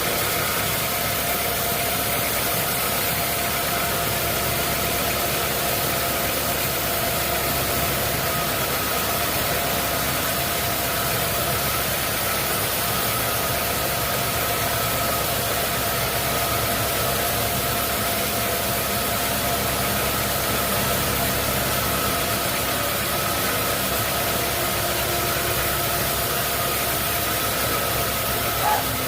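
Sawmill machinery running steadily, a constant mechanical hum with hiss and a few steady tones, with a single small knock near the end.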